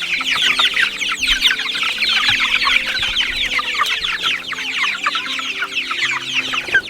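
A flock of young meat-bird chicks peeping continuously: many short, falling peeps overlapping one another.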